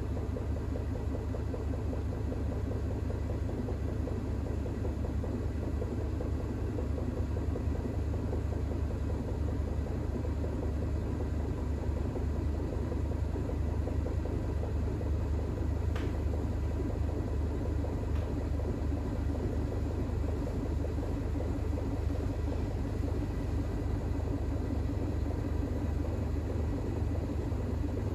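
Bosch WAX32GH1 front-loading washing machine spinning a load of towels in an intermediate spin of up to 1200 rpm: a steady low rumble with a faint whine from the motor. The load is unbalanced.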